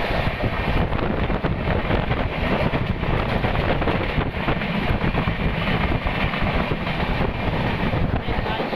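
Mumbai suburban electric local train running along the track, heard from its open doorway: a steady, deep running noise of the wheels and coach, with wind buffeting the microphone.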